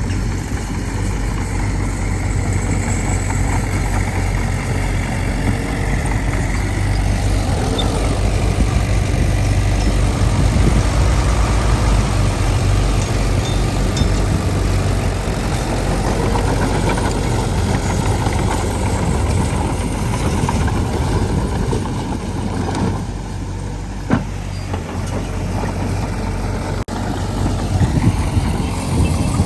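Heavy diesel earthmoving machinery running steadily at work, a deep continuous engine rumble, with a single sharp knock about 24 seconds in.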